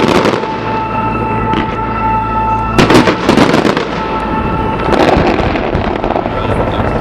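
New Year fireworks exploding in rapid bursts and crackle, with heavy bangs at about three seconds and again at about five seconds.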